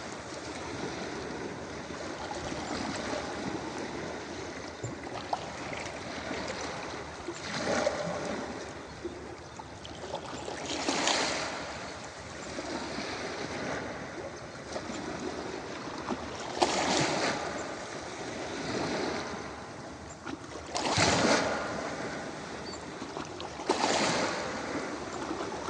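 Ocean surf breaking on a beach: a steady rush of water with a louder wave breaking every few seconds, five in all.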